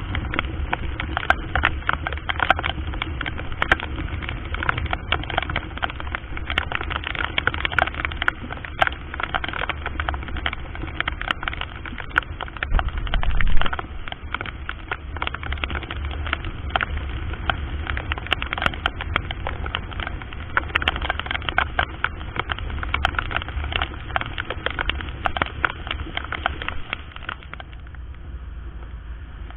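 Riding on a Honda Verza 150 motorcycle, picked up by a helmet-mounted action camera: a steady low rumble of wind and engine, with dense crackling clicks and one louder surge about halfway through.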